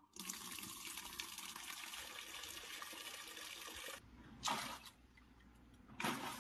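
Washing machine filling: water runs in through the inlet valve into the tub with a steady rush that cuts off abruptly about four seconds in. Two short noises follow in the quieter stretch after it.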